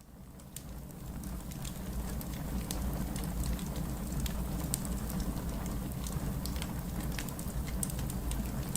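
Steady heavy rain with a wood fire crackling in a fireplace: a dense hiss and low rumble with frequent sharp pops. It fades up over the first two seconds.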